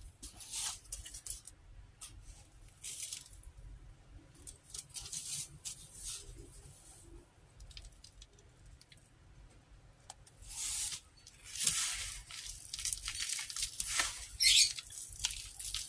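Dry panko and breadcrumbs rustling and crunching in short bursts as a batter-coated poblano pepper is rolled through them, busier near the end.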